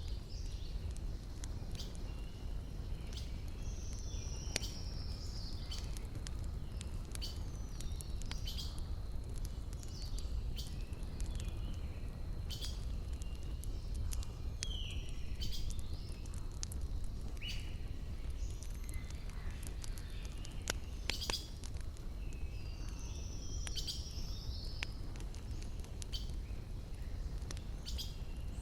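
Wood fire crackling, with many sharp irregular pops and snaps over a steady low rumble. Birds chirp now and then in the background.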